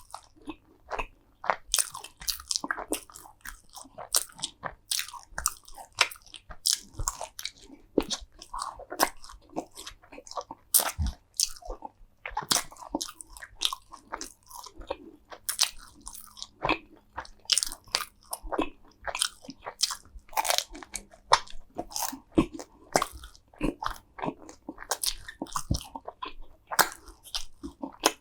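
Close-miked biting and chewing of crunchy food, with irregular sharp crunches several times a second.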